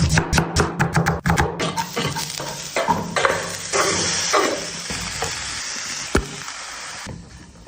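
Food sizzling in a hot pan as it is stirred and tossed: a run of quick clattering strokes in the first couple of seconds, then a steady sizzle with occasional scrapes.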